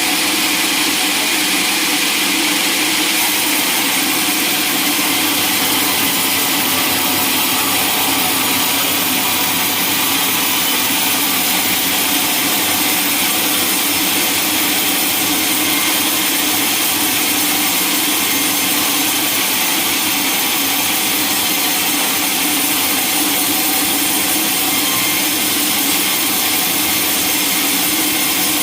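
Sawmill saw and its machinery running with a loud, steady noise that never breaks.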